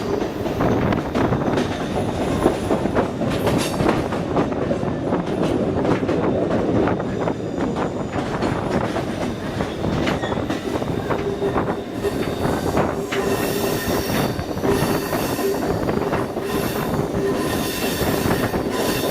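Moving passenger train heard on board: a steady rumble of wheels on the rails with many small clicks and rattles. From about twelve seconds in, a sustained steel-wheel squeal is added.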